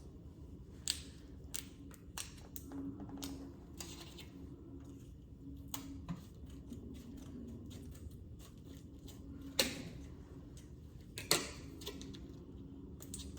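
Kitchen scissors cutting open the plastic film of a tofu package: scattered small snips and crinkles, with a couple of sharper snips in the second half, over a faint steady hum.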